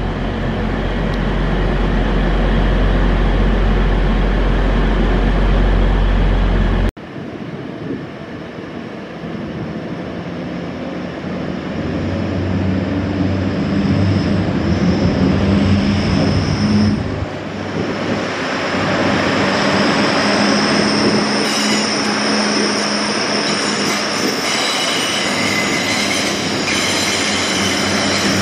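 Grand Central diesel multiple unit running in the station with a deep, steady engine rumble. About seven seconds in the sound cuts abruptly to another train moving through the station: a steadier engine hum with a thin high whine that slowly rises around the middle.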